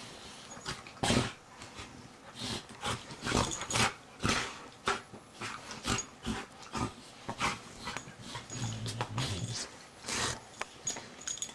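Labrador retrievers barking and growling, with many short, irregular barks and a low growl about three-quarters of the way through.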